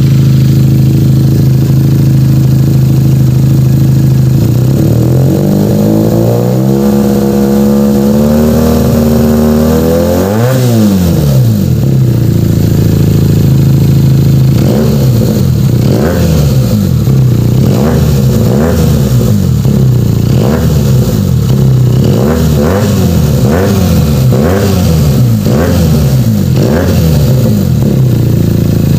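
Benelli 302S parallel-twin engine revved through an Akrapovic exhaust with a twisted mid-link pipe, giving a bassy note. It idles, then climbs slowly, holds for a few seconds and peaks before dropping back about ten seconds in. After a short idle comes a run of quick throttle blips, about one a second, settling back to idle near the end.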